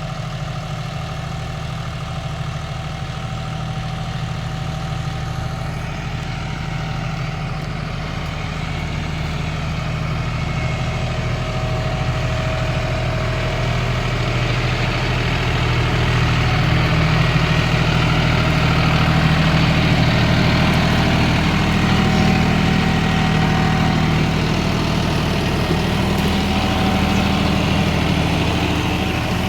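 John Deere 5210 GearPro tractor's diesel engine running steadily under load while driving an 8-foot super seeder. It grows louder through the middle and eases slightly near the end.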